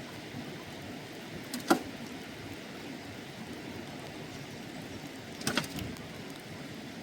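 Steady rushing noise of rain and running water, with a sharp knock a little under two seconds in and a short cluster of knocks about five and a half seconds in.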